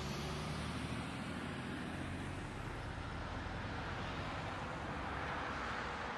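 Steady road noise of a moving vehicle: an even rumble of engine and tyres, with no sudden impact.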